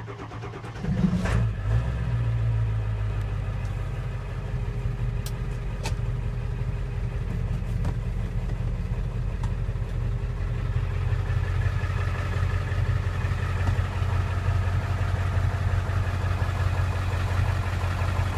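Ford 7.3 Power Stroke V8 turbo-diesel in a 2003 Econoline box truck cranking and firing about a second in, then settling into a steady idle.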